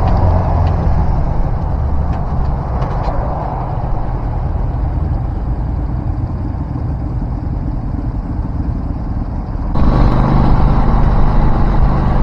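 Vehicle engine and road noise while cruising on an expressway, steady, then suddenly louder about ten seconds in.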